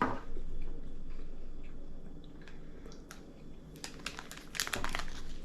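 Small eating and handling sounds: faint clicks and rustles, then a plastic snack wrapper crinkling for about a second near the end.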